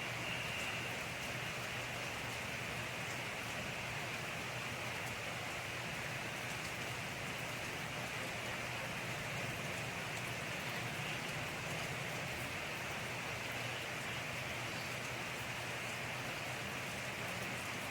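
Steady rain falling, an even hiss with fine drop patter that holds constant throughout.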